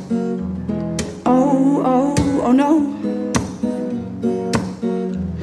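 Live acoustic guitar strummed in a slow song, one strong chord stroke about every second, with a voice holding a wavering wordless sung note through the middle.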